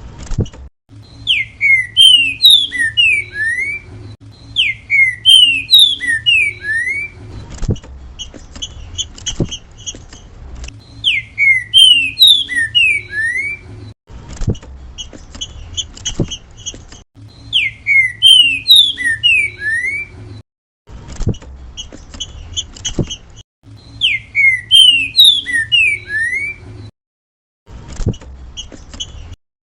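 A green-winged saltator (trinca-ferro) singing its 'grego mole boi' song: a loud phrase of several falling whistled notes, repeated five times about every six seconds, with fainter short chirps in the pauses and a low hum underneath.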